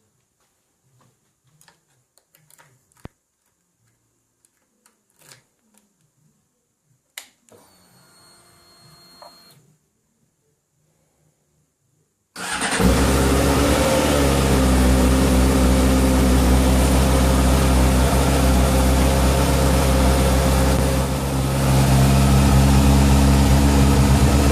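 Faint clicks and a brief faint whir, then about halfway through the Honda CB600F Hornet's inline-four engine fires abruptly on a cold start after three months standing and keeps running steadily, dipping briefly near the end before picking back up.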